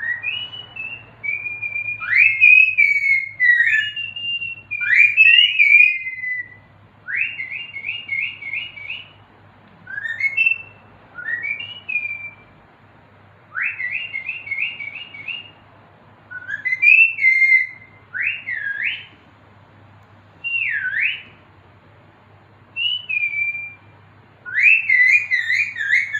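Pet parrot whistling a string of short phrases of rising and falling notes, with brief pauses between them.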